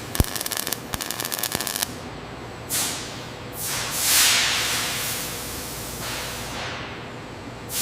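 A fast mechanical rattle for about the first two seconds, opening with a thump, then a long hiss of air that swells about four seconds in and slowly fades.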